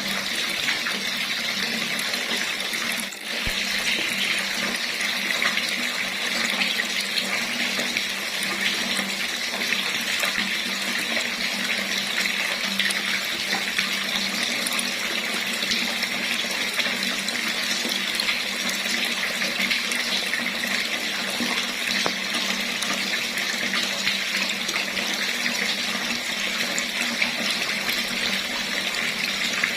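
Water running from a tap in a steady, even stream, dipping briefly about three seconds in.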